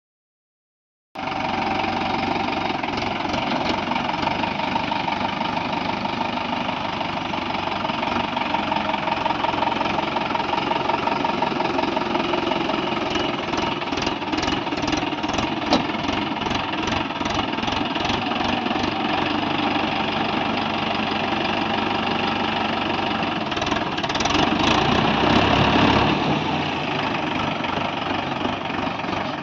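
Mahindra four-wheel-drive tractor's diesel engine running steadily, growing louder for a couple of seconds near the end.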